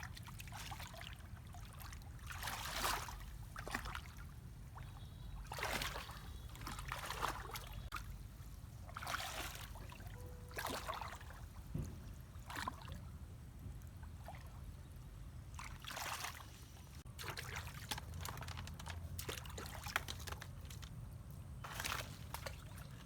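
Water splashing, sloshing and trickling in irregular bursts every second or two, as hands or objects move through shallow water, over a steady low rumble.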